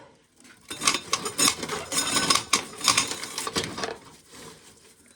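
Dry corn being shelled by hand: a dense, rapid rattle and clicking of hard kernels from about a second in, fading out near the end.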